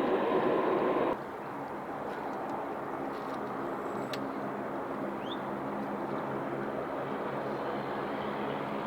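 Loud jet airliner engine noise that cuts off abruptly about a second in. A quieter, steady aircraft engine hum with a low drone follows.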